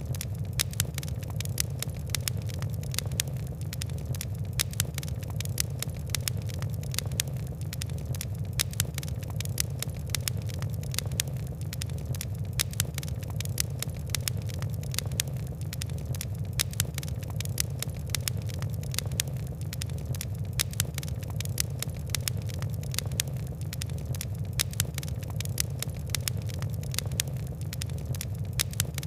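Fire crackling, with irregular sharp pops and ticks several times a second over a steady low rumble of burning.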